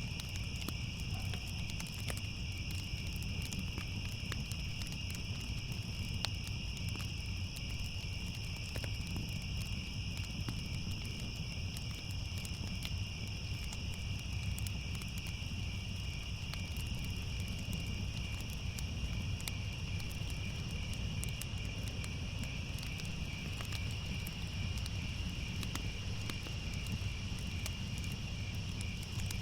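Crickets trilling steadily and without a break, over a low rumble with scattered light crackles from a fire.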